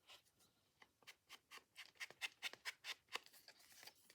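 Quick, repeated scraping strokes on the edge of paper, about five or six a second, starting about a second in: paper edges being distressed by hand.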